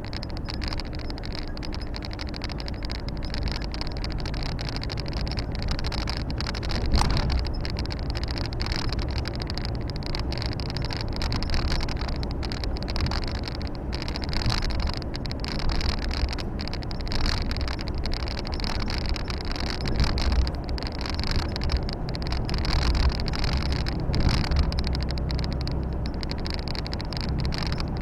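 Volvo FH 460 truck's 13-litre six-cylinder diesel engine running steadily on the road, heard from inside the cab with a constant hum of tyre and road noise. There are a few brief louder jolts, the clearest about seven seconds in and again around twenty seconds.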